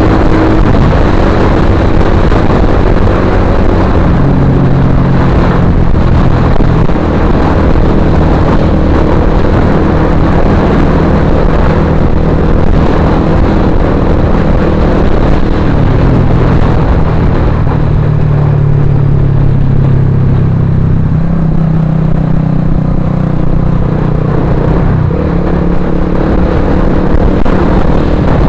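Suzuki GSX-R150's single-cylinder engine running loud through a Purbalingga-made Akrapovic-style carbon aftermarket silencer, a continuous exhaust note whose pitch steps up and down several times.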